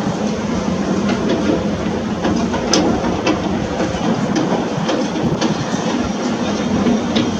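Heavy construction machinery working: a steady diesel engine hum with scattered sharp clanks and cracks, the loudest about three seconds in.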